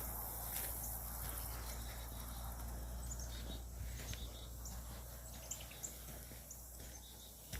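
Woodland ambience: many short, high bird chirps over a steady insect drone, with a low rumble underneath and a few light footsteps.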